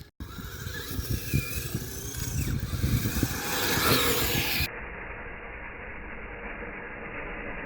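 Kyosho Blizzard 2.0 radio-controlled snowcat running through snow: its electric motor whines with faint rising and falling pitch over rumbling wind noise on the microphone. About halfway through, the sound cuts abruptly to a duller, steady rushing noise.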